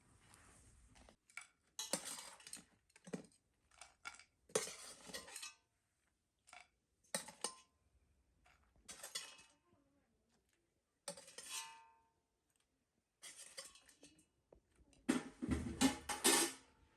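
Metal dishes, pots and utensils clinking and clattering in irregular bursts, some strikes ringing briefly, with the busiest clatter near the end.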